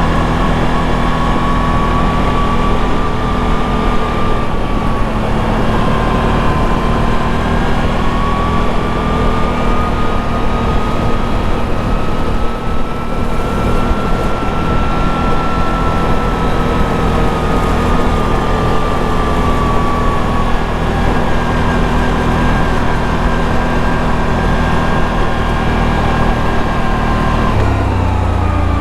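ATV engine running steadily while the machine is ridden at cruising speed, with a whine that rises and falls gently. The engine note changes near the end.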